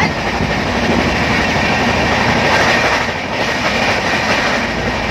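Steady running noise of a moving passenger train, its wheels and carriage rattling along the rails, heard from on board.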